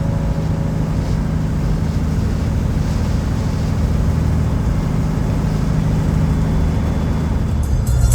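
Peterbilt 379 semi truck's diesel engine and road noise heard from inside the cab as it cruises down the highway: a steady low drone.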